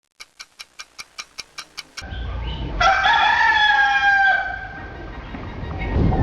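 About ten quick, even ticks, roughly five a second, like a clock. Then, about three seconds in, a rooster crows once: one long call lasting about a second and a half and dropping slightly at the end, over a rough, noisy background.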